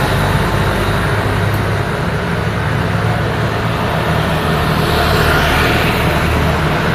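Street traffic: motor vehicles running by, with a steady low engine hum under a constant wash of road noise.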